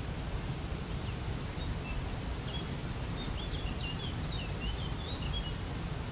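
Steady rushing of a waterfall, with a small songbird singing a quick series of short high chirps from about a second in until near the end.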